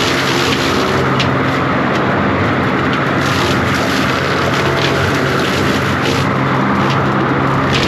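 John Deere 333G compact track loader's diesel engine running steadily at high revs, with scattered short cracks and snaps over it.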